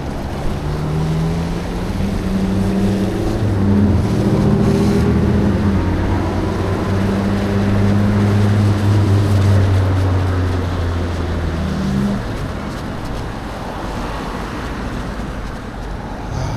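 Motor vehicle engine running close by with a steady low hum, over a hiss of wet road noise; the hum shifts in pitch and falls away about twelve seconds in.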